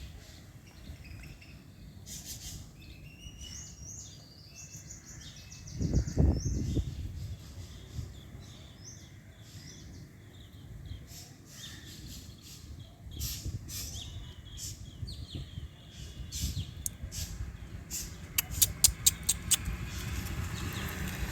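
Small birds chirping outdoors, with a brief low thump and rumble about six seconds in and a quick run of sharp clicks near the end.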